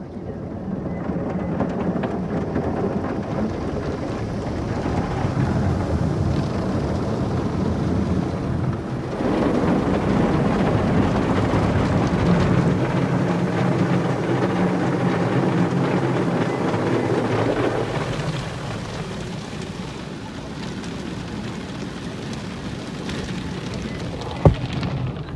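Automatic car wash heard from inside the car: water spray and washing brushes drumming on the body and windows. It builds about a second in, is loudest in the middle, and eases off after about 18 seconds. A single sharp knock comes near the end.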